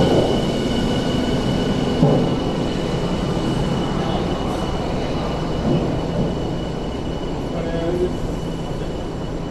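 A Tokyu 5050-series electric train pulls into the platform and slows to a stop. Its wheels and running gear rumble steadily, and the running noise eases off toward the end.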